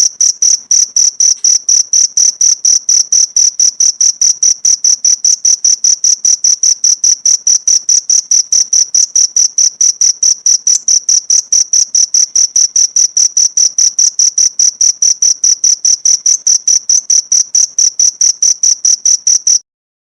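Cricket chirping in a fast, even rhythm of about four to five high-pitched chirps a second, stopping abruptly near the end.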